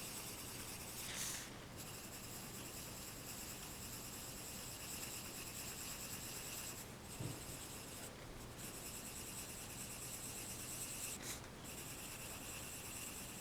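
Pencil scratching on paper in steady sketching strokes, breaking off briefly a few times as the pencil lifts. A soft low bump about seven seconds in.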